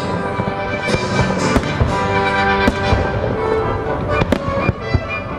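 Fireworks bursting in quick irregular bangs and crackles over an orchestral patriotic soundtrack played through the show's loudspeakers.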